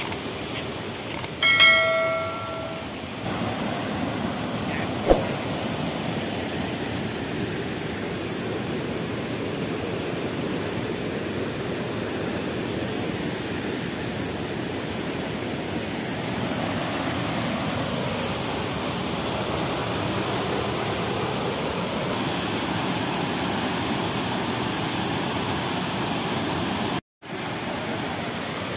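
Steady rushing of a rain-swollen waterfall, a little louder about halfway through. A short bell-like ring sounds about two seconds in.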